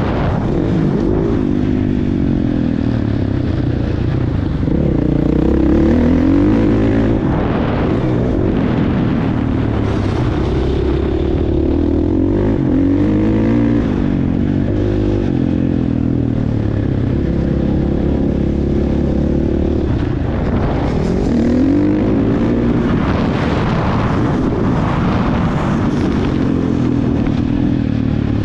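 Motocross bike engine running hard, its pitch rising and falling again and again as the throttle is opened and shut.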